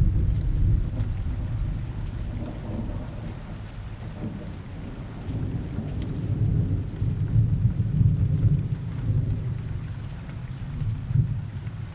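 Steady rain with low thunder rolling underneath. The thunder is loudest at the start, swells again in the middle and peaks briefly once more near the end.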